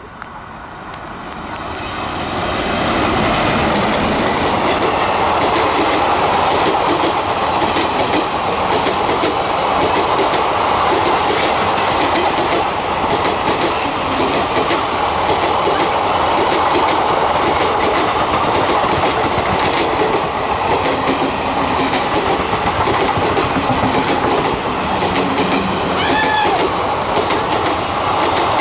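Indian Railways WAP-4 electric locomotive and its 23-coach express train passing at about 80 km/h. It swells over the first few seconds as the locomotive approaches, then the coaches run by with a steady rumble and rapid 'tadak tadak' clickety-clack of wheels over the rail joints. A short high-pitched tone sounds near the end.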